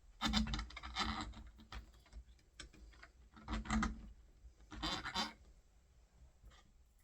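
Small metal door-handle parts clicking and scraping as they are handled and lined up on the door, in three short clattering bursts, the first about a second long, then quieter near the end.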